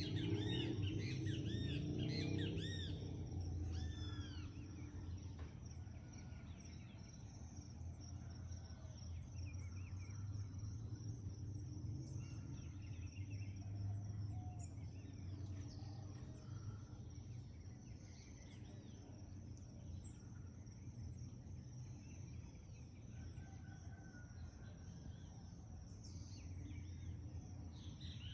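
Dawn chorus of several birds calling and singing, with a dense run of quick repeated chirps in the first few seconds, then scattered calls over a steady low background rumble.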